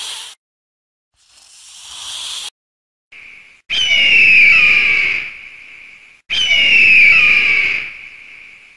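A rattlesnake rattling in two hissing bursts, each growing louder for about a second and then cutting off. From about three seconds in come loud screeching calls, two of them, each with a falling whistle-like pitch.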